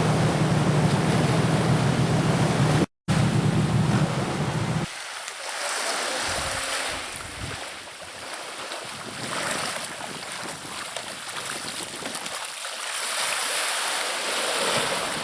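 Wind rumbling on the microphone over open sea for about the first five seconds, cut off briefly near three seconds in. Then a softer, varying wash of sea waves.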